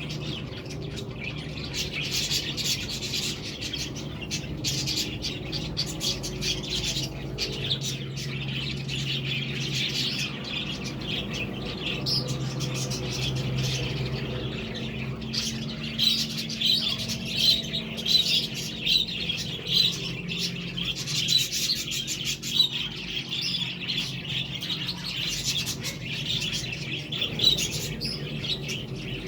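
Budgerigars chattering and chirping continuously: a dense run of quick, high warbles and tweets, with louder, sharper chirps in the second half. A faint steady low hum lies underneath.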